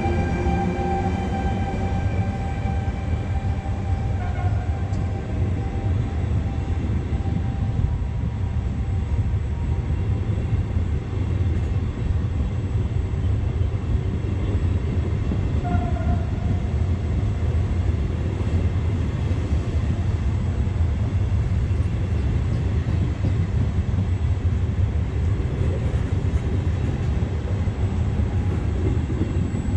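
Electric-hauled regional passenger train rolling past close by, a steady heavy rumble of coach wheels on the rails throughout. The locomotive's whine slides down in pitch and fades over the first few seconds as it moves away.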